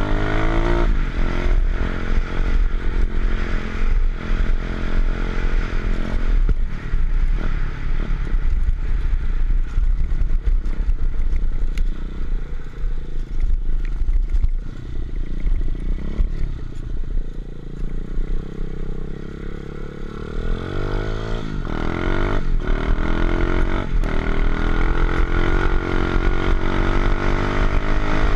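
125cc pit bike engine running and revving up and down, with rattling and clattering knocks as it bounces over rough ground. The revs sink lower for a few seconds past the middle, then climb again in several quick rising revs near the end.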